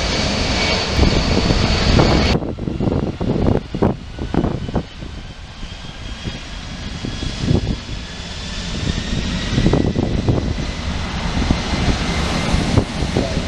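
Wide-body jet airliner's engines: loud jet noise with a high whine, which about two seconds in gives way abruptly to a low rumble with crackle and fainter, slowly rising whine tones.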